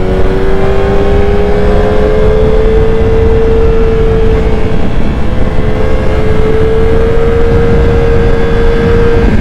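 Motorcycle engine running hard at high, steady revs, its pitch climbing slowly over the first few seconds and then holding, with heavy wind rush on the microphone. The revs drop just before the end.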